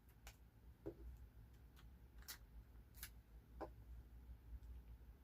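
Near silence, with four faint light ticks from paper and stickers being handled.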